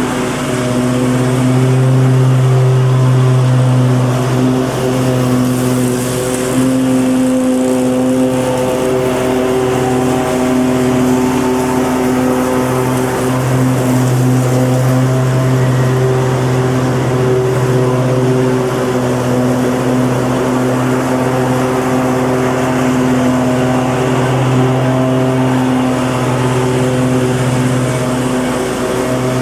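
Lawn mower engine running steadily at an even speed, a constant hum with only slight wavers in pitch.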